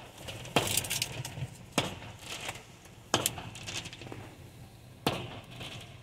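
Aerial fireworks bursting: four sharp bangs a second or two apart, each with a short echo, and fainter crackling pops between them.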